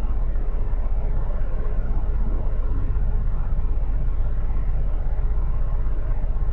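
Motorcycle engine running steadily, heard from on board the bike as a low, pulsing rumble mixed with road and wind noise.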